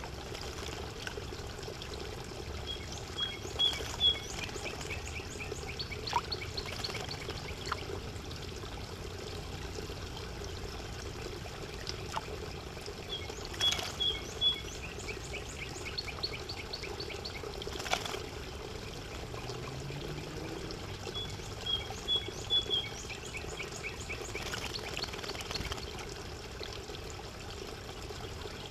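Spotted towhee singing: a few short introductory notes followed by a rapid trill, repeated three times about ten seconds apart, over a steady background noise.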